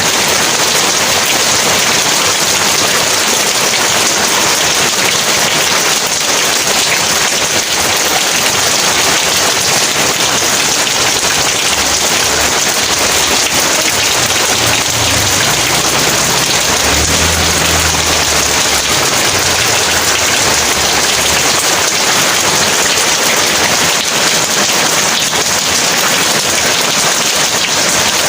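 Heavy rain pouring steadily. In the middle a low rumble of thunder rolls through for about ten seconds, swelling and then fading.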